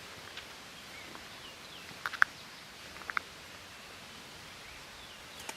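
Quiet outdoor natural ambience with faint, distant small-bird chirps and a few short sharp clicks: a pair about two seconds in and another pair about a second later.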